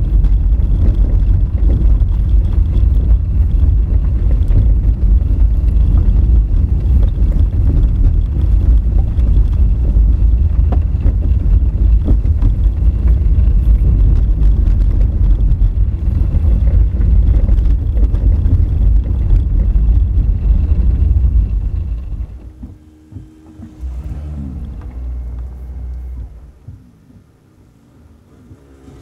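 Honda Fit driving on a rough gravel and rock forest road: a loud, steady low rumble of tyres and wind with scattered sharp knocks of stones. About 22 seconds in it drops suddenly to a much quieter car sound, fading lower still near the end.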